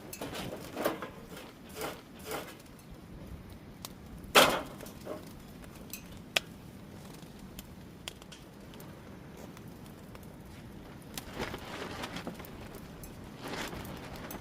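Scattered knocks and clicks of cooking prep on a wooden board, with one loud knock about four seconds in and softer scraping sounds near the end.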